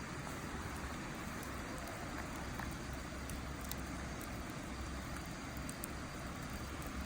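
Wood fire in a Snow Peak fire pit crackling, with scattered small sharp pops over a steady rushing background with a low rumble.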